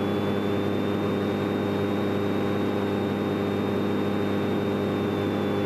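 A light airplane's piston engine running steadily at about 1800 RPM during the pre-takeoff engine run-up, with a thin, high, steady whine over the engine hum.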